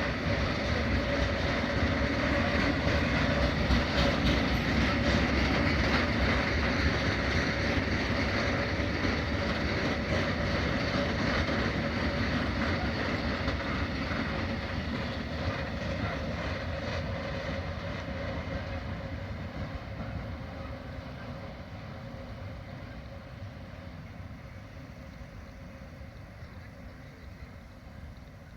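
Freight train rolling past: a steady rumble and clatter of the wagons, with a held whine riding above it. The train is loudest a few seconds in and fades steadily over the second half as it moves away.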